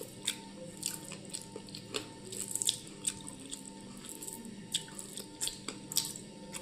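Close-up wet chewing and mouth sounds of a person eating rice and mushroom: irregular soft clicks, smacks and squishes.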